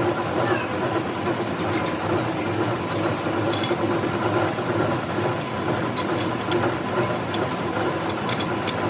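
Metal lathe running with a steady hum, with a few sharp ticks about halfway through and near the end.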